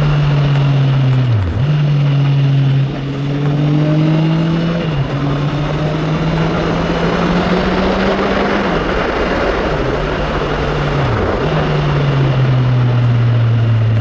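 Honda CB650R inline-four engine pulling hard through the gears, its pitch climbing steadily and dropping sharply at each upshift, about three times, over a steady rush of wind noise.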